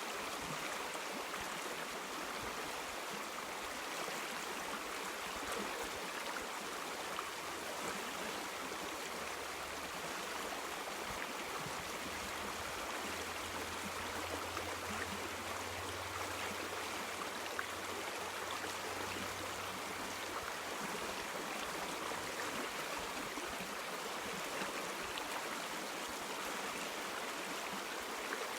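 River water flowing steadily, an even rushing hiss of a stream.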